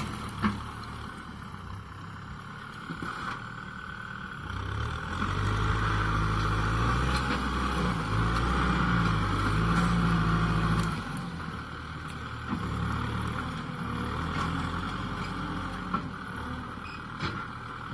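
Kubota M6040SU tractor's diesel engine running under load while pushing. It works harder and gets louder for several seconds in the middle, its pitch shifting with the load, then eases back, with a few short knocks along the way.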